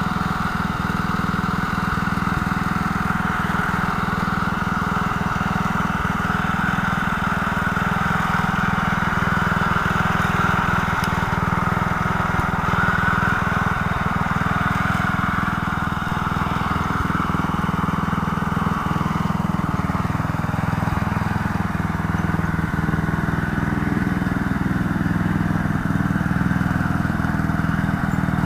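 Mower truck's small engine running steadily at an even speed.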